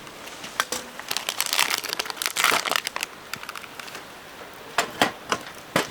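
Crinkling and rustling as something is handled, with scattered clicks and taps; busiest in the first three seconds, then a few separate sharp taps near the end.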